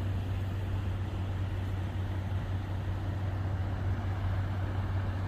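Steady low hum of idling diesel truck engines, with no distinct events.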